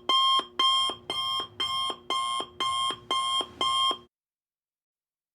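Electronic alarm clock beeping, about two buzzy beeps a second, each stepping down to a lower note; it stops about four seconds in.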